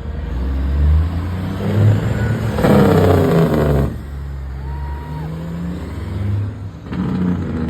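Semi trucks' diesel engines rumbling, with a loud rushing burst of noise about three seconds in that lasts around a second.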